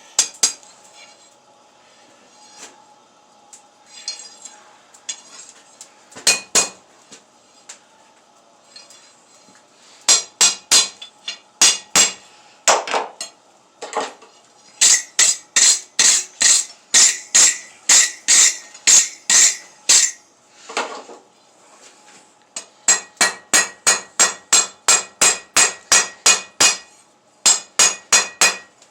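Hand hammer striking hot steel on an anvil with a metallic ring. A few scattered taps come first, then runs of regular blows at about two to three a second, broken by a short pause past the middle.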